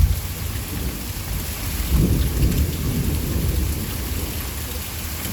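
Steady rain with distant thunder rumbling low underneath, the rumble swelling about two seconds in.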